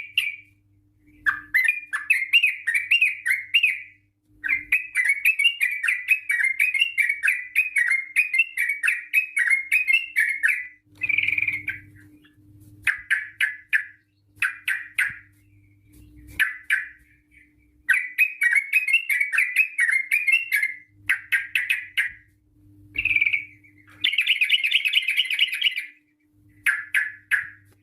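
Yellow-vented bulbul (trucukan) singing long runs of rapid, bubbling chirps, broken by short pauses, in the fast continuous 'ropel' style. A faint low hum sits under some of the phrases.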